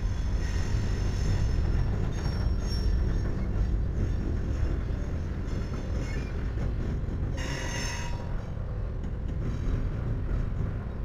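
Freight train cars rolling past with a steady low rumble and thin, high wheel squeal. A louder, sharper squeal lasts about half a second, past the middle.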